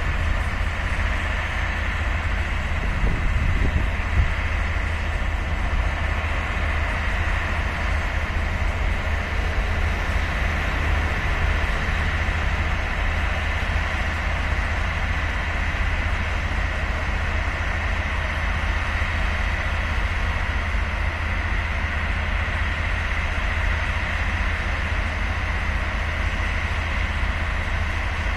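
Steady low rumble and hum from a passenger train standing idle in the station, with a steady high-pitched whine mixed in.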